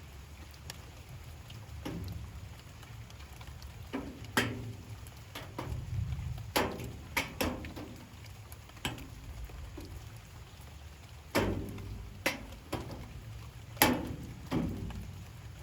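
Light rain with large drops falling irregularly, about one or two a second, onto a hard resonant surface. Each drop lands as a sharp tap with a brief ringing tail. A low steady rumble runs underneath.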